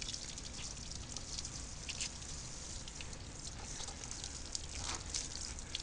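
Water trickling and dripping, with a few light drops pattering.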